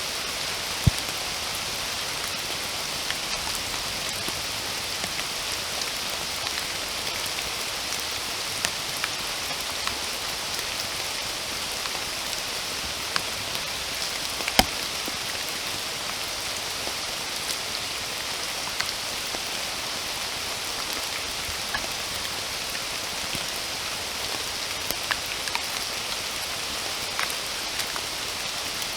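Steady rainfall in a forest, a constant hiss with individual heavier drops ticking on nearby surfaces now and then, one sharper drop hit about a second in and another in the middle.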